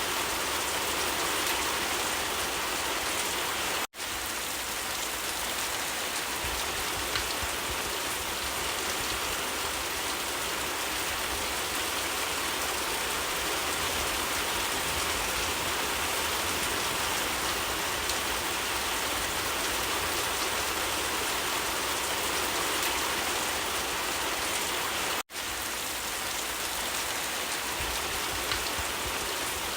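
Steady rain falling, a dense even patter. Twice, about 4 seconds and 25 seconds in, the sound cuts out for a split second and comes straight back.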